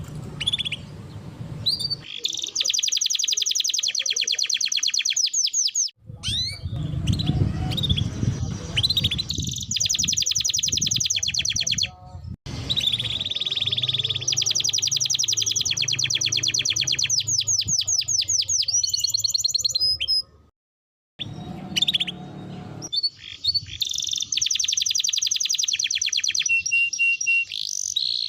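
Domestic canary singing long, fast trilled rolls, phrase after phrase, with short breaks between them.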